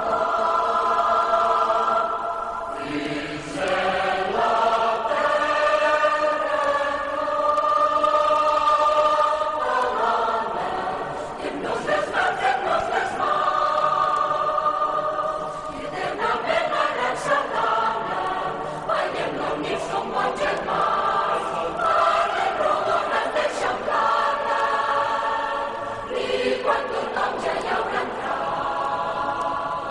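A choir singing in held chords that change every second or two, with short sharp clicks scattered through the second half.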